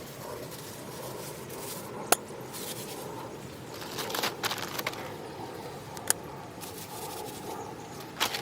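A few sharp clicks, about 2 s and 6 s in and again near the end, with a burst of light clatter between about 4 and 5 s, over a steady background hiss.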